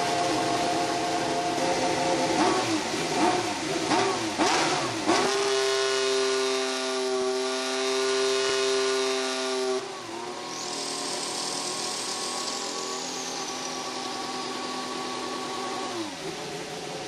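2016 Mercedes Formula One car's turbocharged 1.6-litre V6 hybrid engine revving. It gives several quick blips in the first few seconds, holds high revs for about four seconds, then drops back about ten seconds in to a lower steady pitch with a high whistle that fades downward. The pitch falls again near the end.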